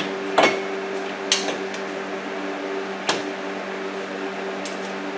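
Metal bolts and hardware clinking against the steel hitch receiver mount as a 13 mm bolt is started through it: three sharp clinks, then a few lighter ticks near the end. A steady machine hum runs underneath.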